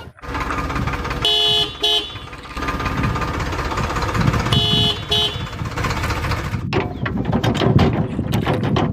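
A vehicle horn sounds two short double toots, a few seconds apart, over a running motor. Near the end the motor turns into a rapid, even rattle.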